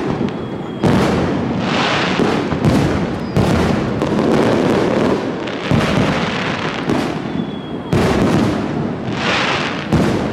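Fireworks display: aerial shells bursting one after another, a sharp bang every second or two, each trailing off in a long rumbling echo, with bursts of crackling stars in between.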